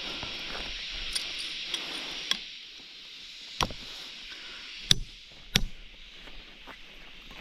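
Several sharp wooden knocks like chopping, irregularly spaced, the loudest two about five seconds in and half a second apart, over a steady high hiss of insects.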